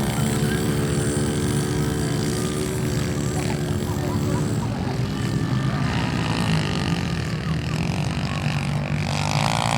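Small pit bike engines running, a steady engine note that gives way to rougher engine sound about halfway through.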